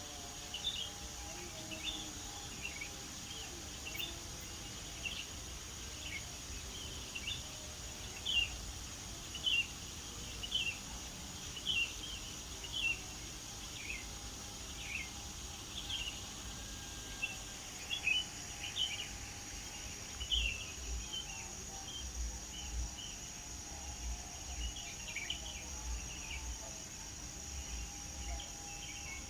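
Birds chirping in short notes, about one a second, over a steady high-pitched insect drone.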